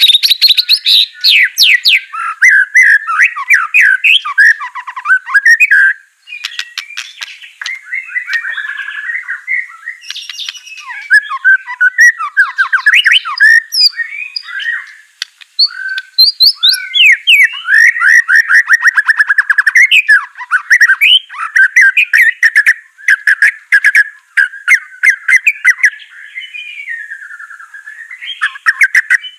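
White-rumped shama (murai batu) singing loudly and almost without pause: a varied song of fast trills and whistled phrases mixed with rapid clicking notes, with two brief breaks.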